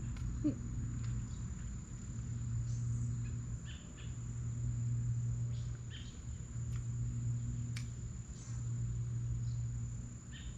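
Insects trilling steadily in a single high, unbroken tone, over a low hum that swells and fades every couple of seconds, with a few faint clicks.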